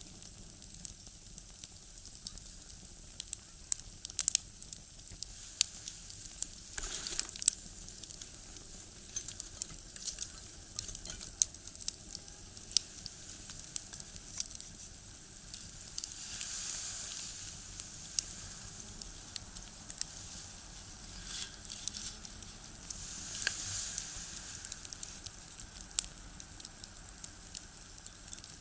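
Firewood burning in a small box stove, crackling with many sharp pops over a steady hiss that swells twice.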